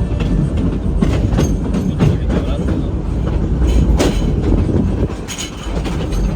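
Train rolling along the rails, heard from aboard a passenger car: a steady low rumble with irregular clanks and rattles, one sharper clank about four seconds in.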